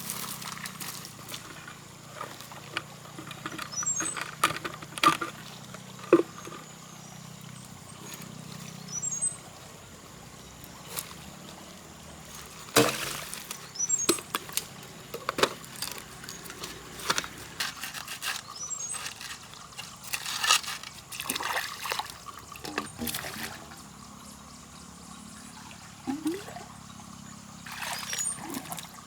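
Muddy water splashing and pouring in irregular bursts, with faint high chirps every few seconds.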